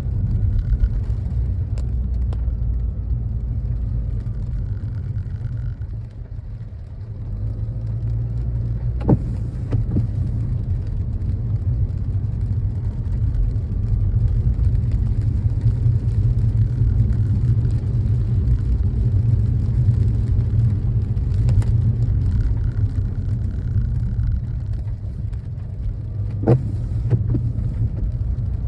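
Car driving: a steady low road rumble, with a few sharp clicks or knocks along the way.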